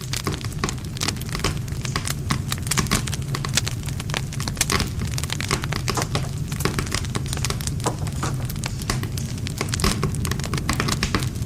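Wood campfire burning, with dense, irregular crackling and popping over a low steady rumble.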